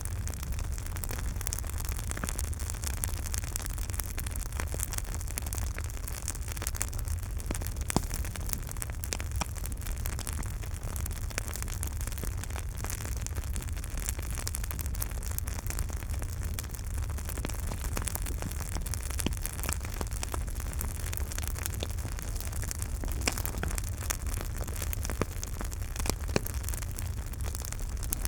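Campfire burning: a steady low rumble of the flames with frequent small crackles and occasional louder pops of the burning wood.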